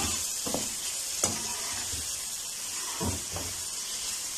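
Chopped tomato, capsicum and onion sizzling in hot oil in a metal karahi. A metal spatula scrapes and stirs through them in repeated strokes, with a sharp clink about a second in.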